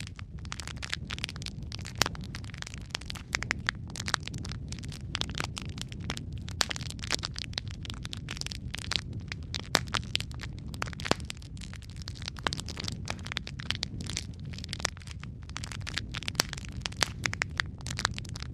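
Wood fire burning in a fireplace: a steady low rumble of flames with dense, irregular crackles and a few louder pops.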